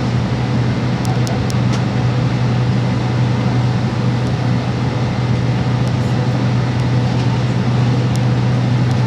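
Steady cabin noise of a Boeing 767 on its take-off: the jet engines running with a deep, even hum and rumble, a few faint rattles about a second in.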